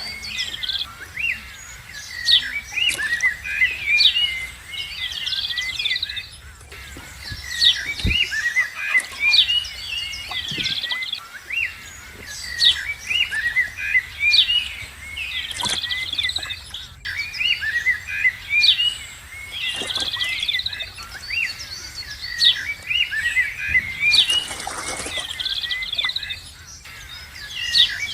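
Birds chirping and twittering: clusters of short, high chirps that come again every few seconds.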